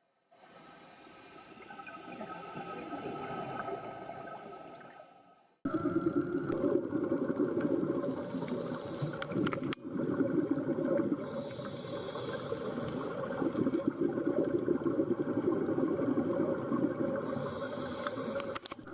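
Water noise from an underwater recording, in two parts: a softer rush that swells and fades, then, after an abrupt cut about five and a half seconds in, a louder, rougher churning that continues.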